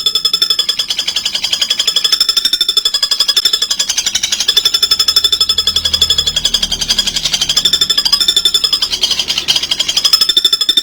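A bird gives one long, unbroken, very fast high-pitched trill, an even rattle of many notes a second held at a steady pitch, as used for training contest songbirds.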